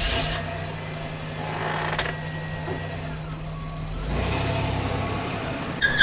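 Car engine sound effect running at a steady idle, with a sharp click about two seconds in. About four seconds in the engine revs up, and a tyre squeal starts just at the end.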